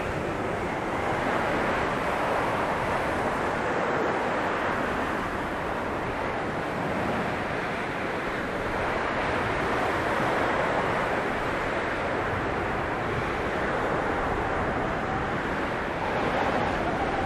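Blizzard wind blowing steadily, a dense rushing noise that swells and eases slowly.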